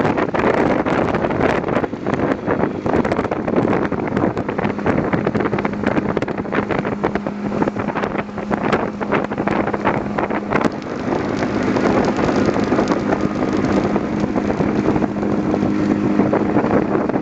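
Motorboat underway with heavy wind buffeting the microphone. A steady engine hum comes in about four seconds in, and a second, higher hum joins partway through.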